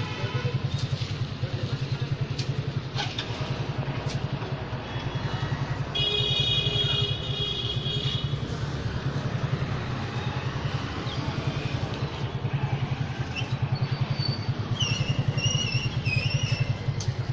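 A small engine running steadily with a rapid low throb. A short high-pitched sound with several tones comes about six seconds in, and a few high chirps come near the end.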